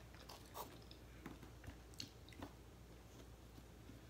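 Faint chewing with a few soft, short mouth clicks scattered through the first couple of seconds.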